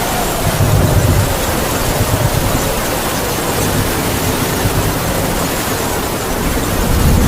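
Heavy rain falling steadily with howling wind: deep gusts swell about a second in and again near the end, and a faint high moan rises and falls through the hiss of the rain.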